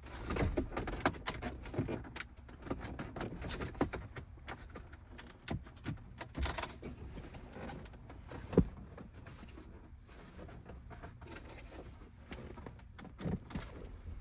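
Plastic interior trim being handled and worked loose: scattered clicks, knocks and rubbing, with one sharp knock about eight and a half seconds in.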